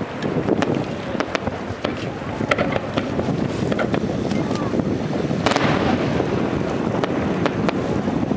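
Fireworks going off in irregular succession, sharp bangs and crackles a few times a second, with a bigger burst about two-thirds of the way in, over a steady low rumble.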